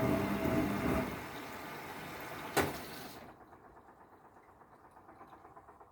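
1994 Ocean 900 washing machine running with a steady mechanical hum that fades away after about a second. A single sharp click comes about two and a half seconds in, and then the machine goes almost quiet.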